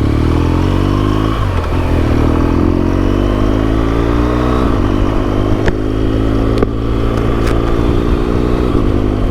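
BMW R1200GS boxer-twin engine through its SC Project aftermarket exhaust, accelerating on the road: the pitch climbs, drops back at an upshift about a second and a half in, climbs again and drops at a second upshift near the middle, then holds nearly steady.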